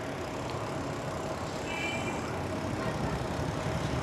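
Road traffic: a steady wash of vehicle engine and tyre noise, heard from a moving bicycle, growing gradually louder near the end. A brief high-pitched tone sounds about two seconds in.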